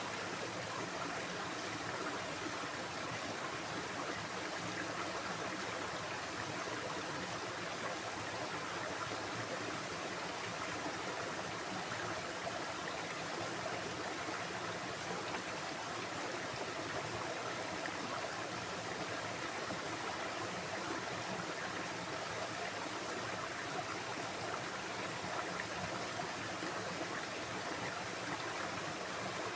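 Water flowing in a stream, making a steady, even rush with no breaks or changes.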